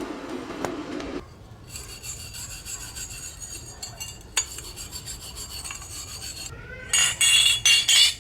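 A file rasping over metal in quick repeated strokes, with louder, harder strokes near the end.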